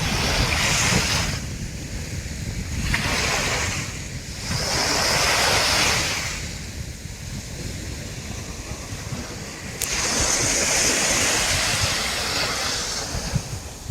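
Sea waves breaking on a sandy beach and washing up the sand, coming in about four hissing surges, the longest starting suddenly about ten seconds in.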